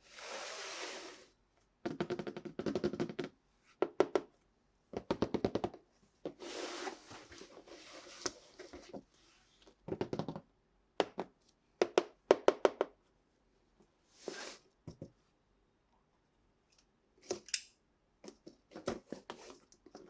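Plastic toys and their packaging being handled: a short rustle at the start, then bursts of rapid clicking and rattling separated by pauses.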